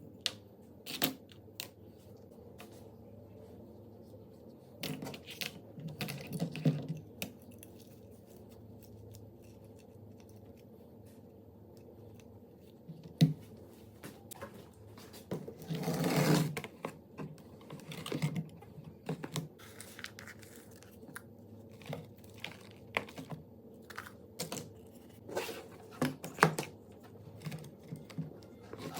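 Scattered light clicks, taps and small knocks of hard parts being handled, with a brief scraping rustle about sixteen seconds in.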